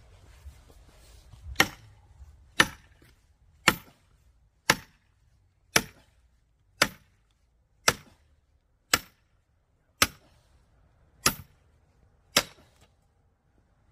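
Firewood being split by hand: eleven sharp blows struck at a steady pace of about one a second.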